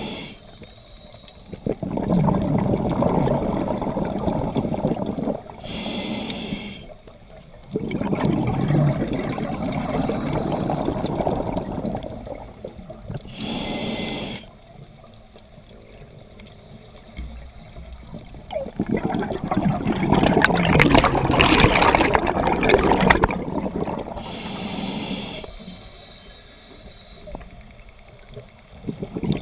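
Scuba diver breathing underwater through a regulator. Short hissing inhalations alternate with longer, louder bubbling exhalations in a slow cycle, about three to four breaths over the stretch.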